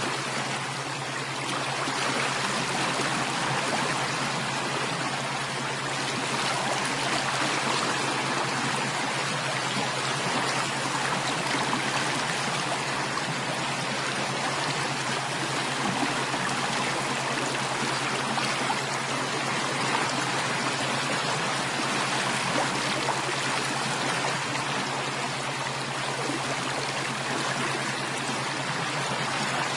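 Steady running water, like a flowing stream, an even rushing hiss with no breaks, over a faint steady low hum.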